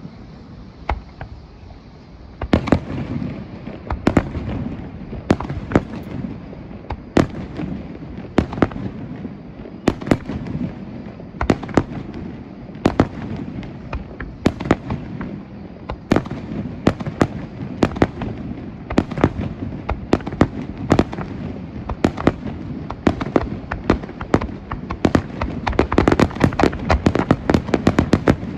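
Aerial fireworks bursting in an irregular run of sharp bangs, starting about two seconds in and coming thicker and faster near the end.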